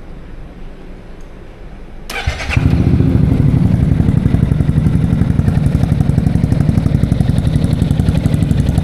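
Yamaha XMAX 250 scooter's single-cylinder engine, fitted with a ProSpeed aftermarket exhaust, started about two seconds in. A brief starter whir, then it catches and runs with a steady, loud, rapidly pulsing exhaust note.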